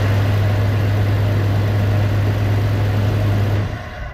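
1998 Jeep Grand Cherokee's 4.0-litre inline-six idling steadily just after starting, its crank-no-start fault cured by a new fuel pressure regulator that holds fuel pressure. The engine is switched off about three and a half seconds in.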